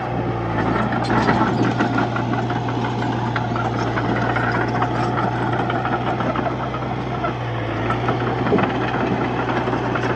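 Komatsu D31P bulldozer's diesel engine running steadily, with a constant metallic clatter and rattle from the machine as it works.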